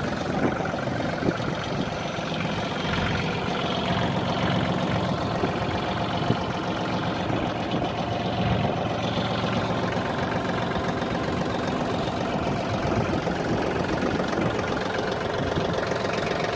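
Yanmar EF222 compact tractor's diesel engine idling steadily.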